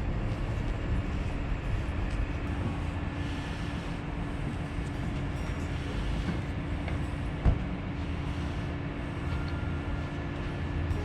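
Steady low rumble of a vehicle on the move, with a constant hum, as heard from inside a camper. There is a single sharp click about seven and a half seconds in.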